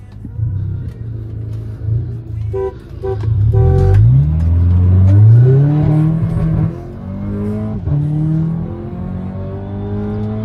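Volkswagen Beetle engine launching hard off the line from a drag-race start. Two short car-horn honks give the start signal about two and a half and three and a half seconds in. The engine then pulls through the gears, its pitch climbing and dropping back at each upshift.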